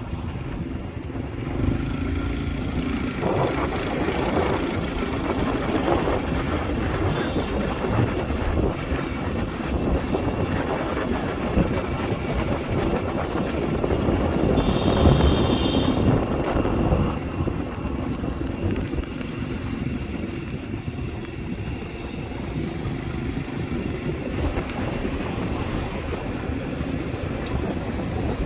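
Motorbike running while being ridden, with wind buffeting the microphone; the noise swells a little about halfway through.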